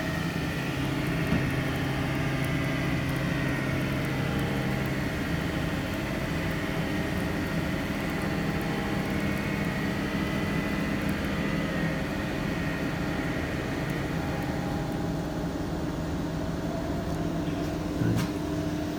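TY23VSM mobile wheel lathe running, spinning an alloy wheel at 800 RPM while the tool takes a 0.1 mm skim cut at 40% feed: a steady, quiet mechanical hum. A faint high whine fades out about three-quarters of the way through.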